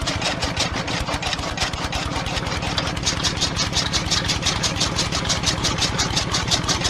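A small engine running steadily, with a fast, even chugging of about eight to ten pulses a second.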